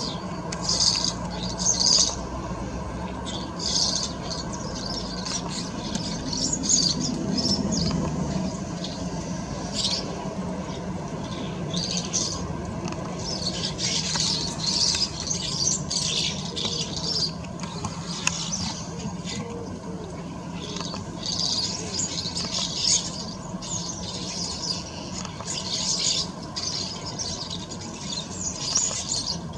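Small garden birds chirping and twittering in quick, irregular bursts, with a steady low hum underneath.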